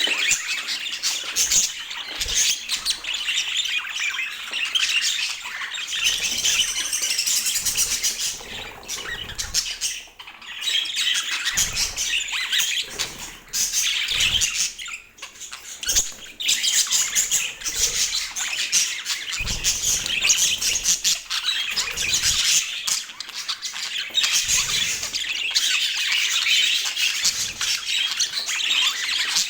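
Budgerigars chattering and warbling continuously, a busy stream of chirps and squawks with brief lulls.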